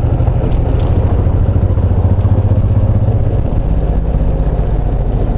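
Honda VTX1800's big V-twin engine running under way, a steady low drone that eases off a little past the middle.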